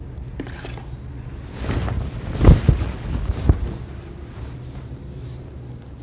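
Rustling and handling noises with two dull thumps about a second apart, over a steady low hum.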